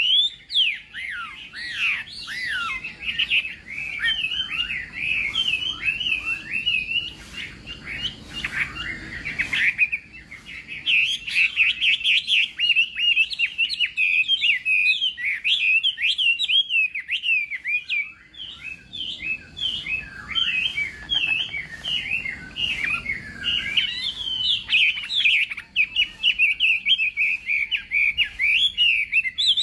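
Chinese hwamei (laughingthrush) singing a long, rapid, varied song of quick rising and falling whistled notes. The song softens for a few seconds about a third of the way in, then comes back loud.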